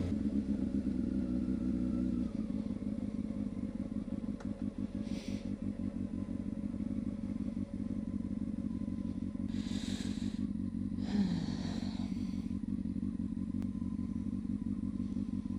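Honda CB600F Hornet's inline-four motorcycle engine running steadily, its note shifting slightly about two seconds in, with two brief hissing noises around the middle.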